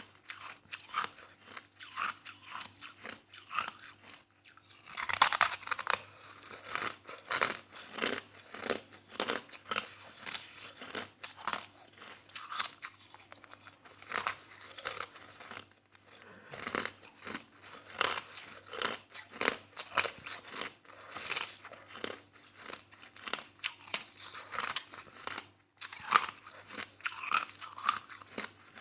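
Close-up chewing of soft crushed ice: steady, irregular crunching bites, heaviest about five seconds in, with brief pauses around four and sixteen seconds.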